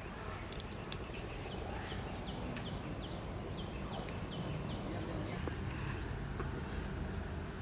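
A bird calling a run of short, evenly spaced chirps, about three a second, then a single rising whistle near the end, over a steady low rumble of background noise.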